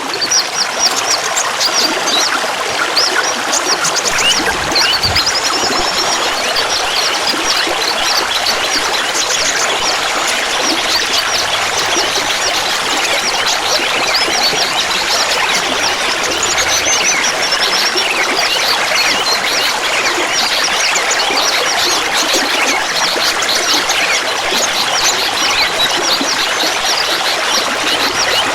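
Clear water trickling and gurgling steadily, with many short, bright splashing notes over it.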